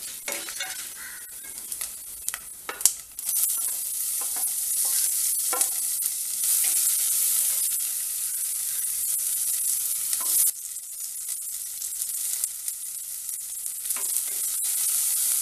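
Spices sizzling in hot coconut oil in a stainless steel pot, with a wooden spatula scraping and clicking against the pot as it stirs. The sizzle jumps louder about three seconds in as chopped onion and garlic go into the oil, then drops off suddenly about ten seconds in.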